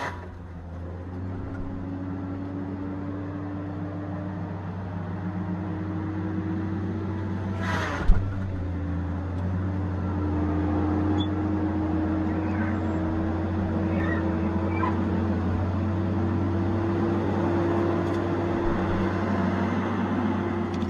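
Tigercat 870C feller buncher running steadily, a low diesel hum with a whine that climbs slowly in pitch. A single sharp crack about eight seconds in.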